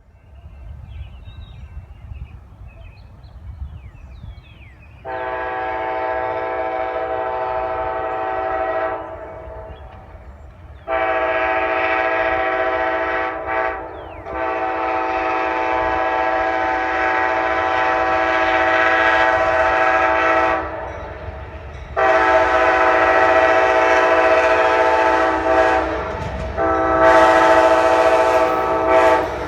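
Locomotive air horn sounding a chord of several tones in a series of long blasts, over the low rumble of an approaching train.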